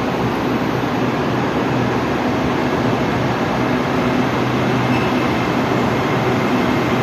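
A train running at the station: a steady rumble with a low hum.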